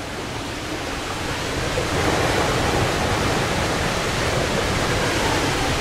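Rushing water making a steady, loud noise, growing a little louder about two seconds in.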